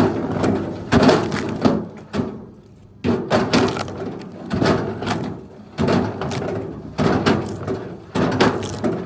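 Tree branches cracking and snapping repeatedly, a sharp break about once a second followed by crackling, as brush from a felled treetop is gathered.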